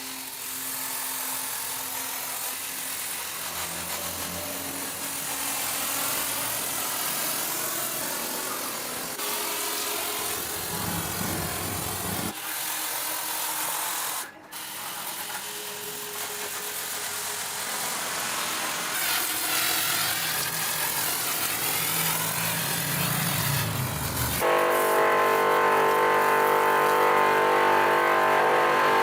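Machine and tool noise that changes abruptly several times, with a brief drop-out about fourteen seconds in. A loud, steady motor hum takes over about twenty-four seconds in.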